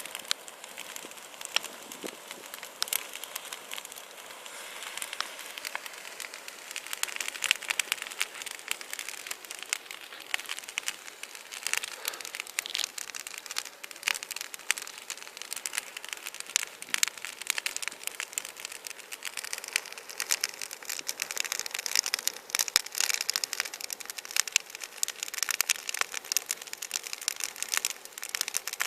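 Large bonfire burning: dense, irregular crackling and popping over a steady hiss of flames.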